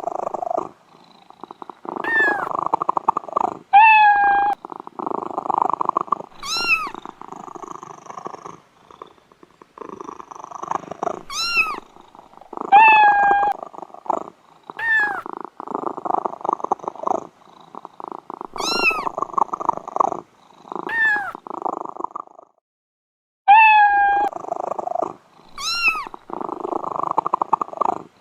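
A cat purring steadily, with short, high-pitched mews every couple of seconds. The sound breaks off briefly about two-thirds of the way through.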